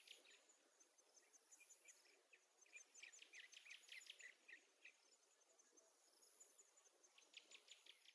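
Near silence with faint, quick high chirps in clusters, mostly around three to five seconds in and again near the end, over a faint steady high tone.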